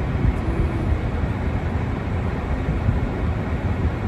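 Steady low outdoor rumble with no distinct events, strongest in the bass.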